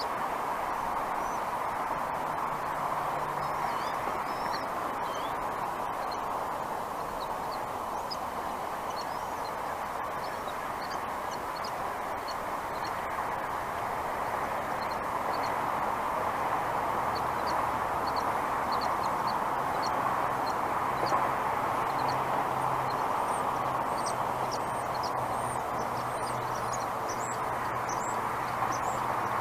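Faint, high bird chirps scattered over a steady rushing background, with the chirps coming more often in the last few seconds.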